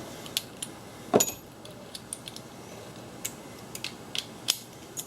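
Metal hand tools clinking: sockets and extensions knocked and fitted together in a series of short, sharp clicks, the loudest about a second in.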